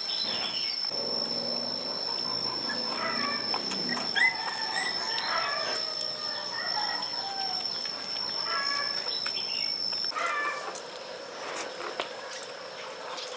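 Animal calls: short pitched chirps repeating on and off, over a steady high whine that cuts off suddenly about ten seconds in.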